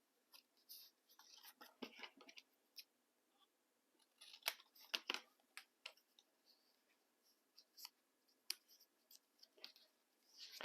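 Faint, scattered snips and paper rustles of scissors cutting paper, in irregular bursts with a cluster a few seconds in.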